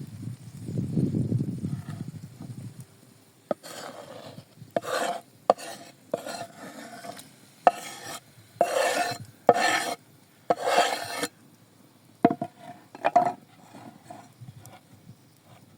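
A utensil scraping and stirring in a pan in a run of short strokes with brief pauses between them, after a low rumble in the first couple of seconds.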